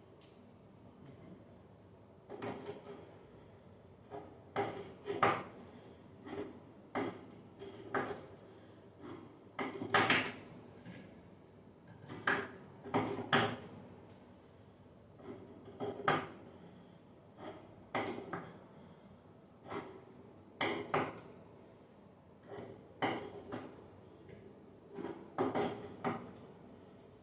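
A run of irregular knocks and clanks of hard objects being handled, roughly one every second, some in quick pairs.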